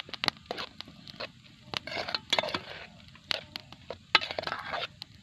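Irregular crackling, scraping and sharp clicks from handling instant noodles and cooking utensils.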